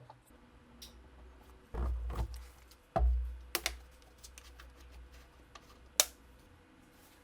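Handling noises on a workbench: scattered small clicks and knocks, with two dull thumps about two and three seconds in and a single sharp click about six seconds in.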